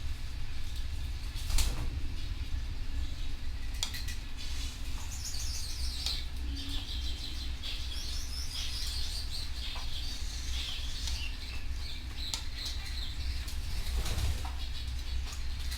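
Canary singing rapid, high warbling trills through the middle, with a few sharp clicks and a steady low hum underneath.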